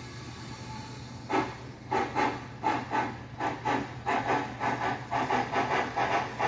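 TCS WOW sound decoder in an HO scale 2-6-6-2 steam locomotive model, playing steam exhaust chuffs through the model's small speaker over a faint steady hum. About a second in, the chuffing starts and then comes quicker and quicker, as a steam engine does when it gets under way.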